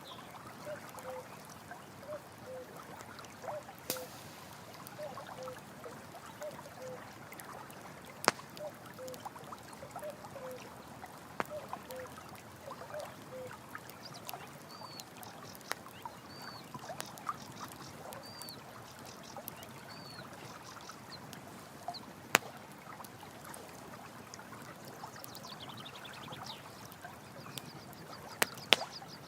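Steady running stream water with a campfire crackling, a few sharp pops standing out, the loudest one about two thirds of the way in and two close together near the end. Over the first half a short low animal call repeats about twice a second, and a higher short call repeats several times in the middle.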